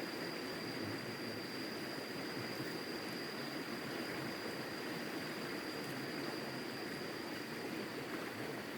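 Steady rushing of flowing river water, with a thin, high, steady tone above it that fades near the end.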